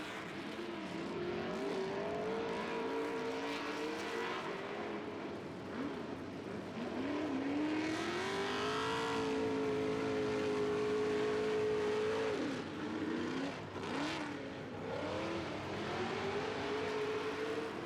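Off-road 4x4 race truck engine revving hard, its pitch climbing and falling with the throttle. Near the middle it holds one long high rev for about four seconds, then drops off sharply before revving again.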